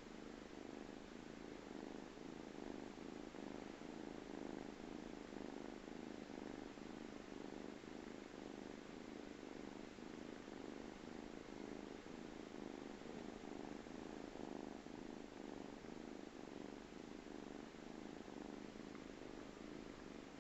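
Domestic cat purring steadily while napping, a low, even purr that swells and eases slightly with its breathing.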